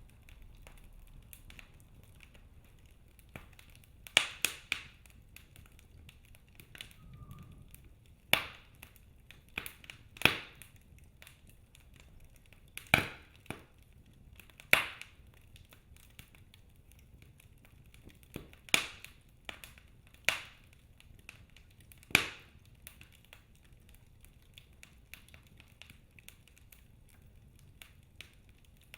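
Wood fire burning in a fireplace, its logs giving sharp, irregular pops and snaps every second or few, with faint ticking crackle and a low hiss between them.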